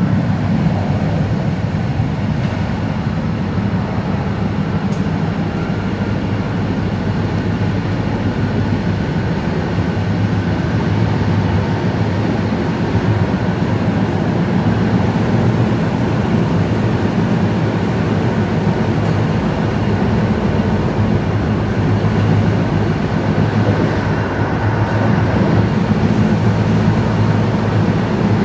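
Steady low rumble and hum of a moving vehicle running continuously, with no marked change.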